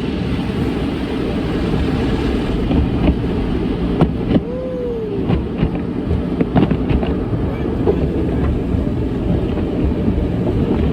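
Automatic car wash heard from inside the car: a steady rush of water spray and machinery against the body, with scattered knocks on the car in the middle.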